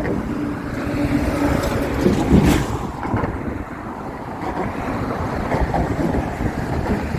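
Wind buffeting the microphone of a moving bicycle, a steady rushing rumble that rises and falls, with traffic-like vehicle noise mixed in.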